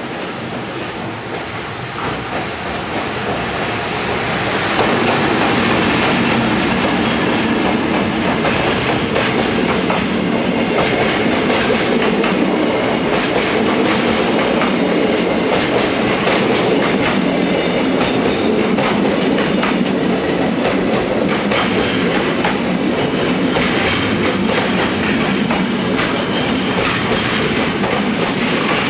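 EF210 electric locomotive approaching and passing, growing louder over the first five seconds. It is followed by a long line of loaded container wagons rolling past at steady speed, their wheels clicking over the rail joints.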